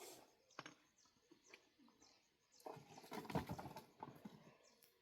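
Scattered light knocks and clatter, busier and louder from about two and a half to four and a half seconds in.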